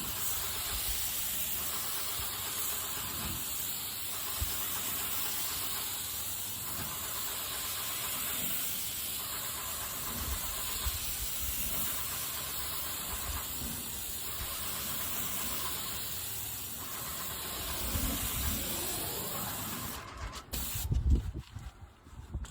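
Airless paint sprayer gun spraying with a steady hiss, which cuts off near the end and is followed by a few low bumps and knocks.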